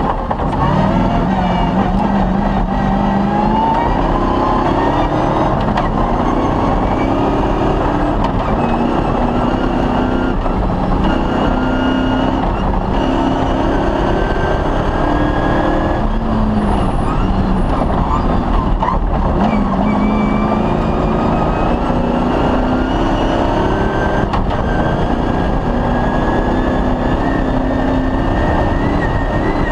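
Off-road rally car's engine running hard under load, its pitch climbing through the revs and dropping back at several gear changes around the middle.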